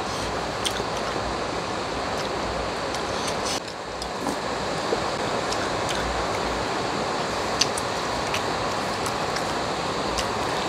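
Heavy rain pouring down, a steady loud hiss, with a few light clicks of a spoon and chopsticks against dishes.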